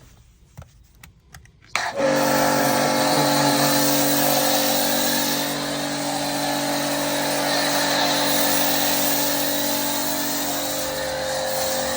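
Pressure washer starting about two seconds in, after a few faint clicks, and running steadily with a held tone over a broad hiss as it sprays snow foam through a foam lance.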